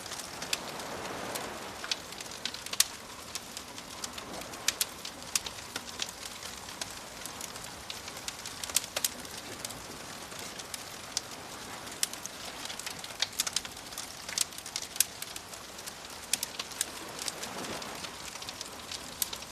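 Wood fire crackling with sharp, irregular pops over a steady wash of gentle waves; the wash swells softly about a second in and again near the end.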